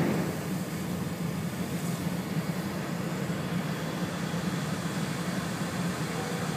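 Steady running rumble and hiss of an E4-series double-deck Shinkansen at speed, heard inside the passenger cabin. It eases off in the first half second, then holds even.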